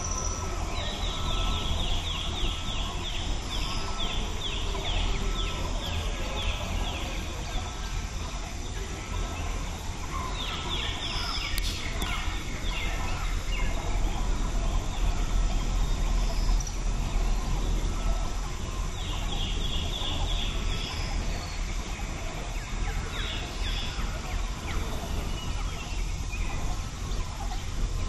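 Birds calling outdoors in bouts of fast, repeated rattling notes, four bouts with pauses between, over steady outdoor background noise and a low wind rumble on the microphone.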